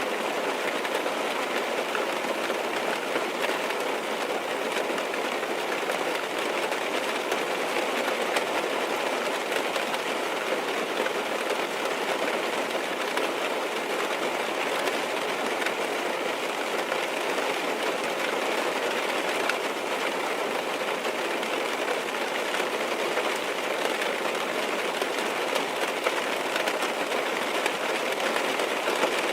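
Steady rain pattering on a car's roof and windows, heard from inside the car as a dense, even patter of fine drops.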